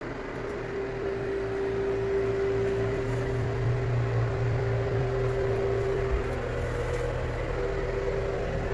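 Steady machine hum from a running motor, with a constant mid-pitched tone over a low drone.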